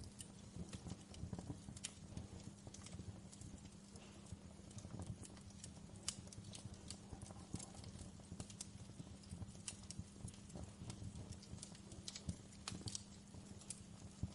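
Wood fire crackling in a fireplace: irregular sharp pops and snaps, one every fraction of a second, over a low steady rumble of the flames.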